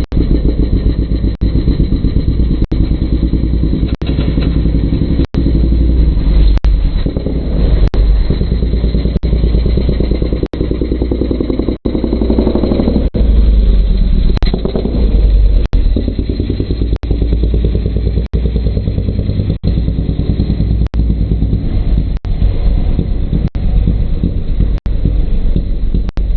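Suzuki Raider 150's single-cylinder four-stroke engine running through an aftermarket Kou exhaust pipe, with a brief rev about halfway through. Short, evenly spaced breaks in the sound come about every second and a half.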